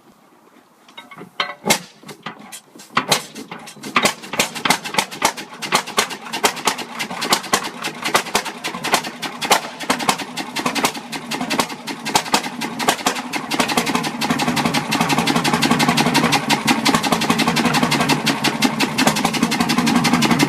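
Old diesel engine starting up: a few separate knocks as it begins to fire, then it catches and runs with rapid knocking strokes, growing louder and settling into a steady run about two-thirds of the way through.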